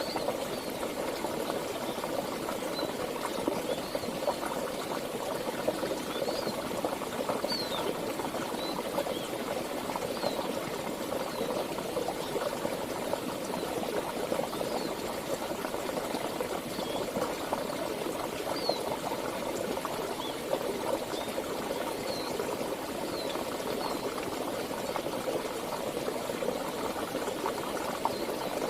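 Flowing stream water, a steady babbling rush, with faint short high chirps scattered through most of it.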